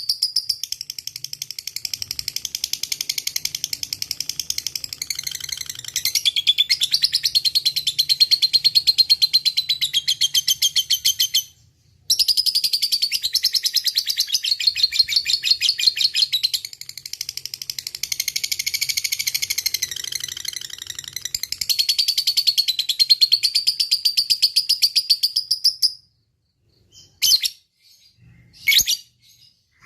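Lovebird ngekek: a long, fast, high-pitched chattering song, rapid notes run together without let-up. It breaks off briefly about twelve seconds in, resumes, then stops, leaving two short chirps near the end.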